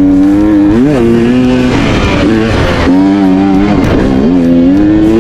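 Dirt bike engine running under throttle on a trail, its pitch rising and dipping several times as the rider works the throttle.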